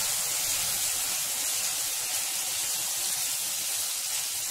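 Curd rice sizzling in a hot frying pan as it is stirred into the oil tempering: a steady hiss that stops abruptly at the end.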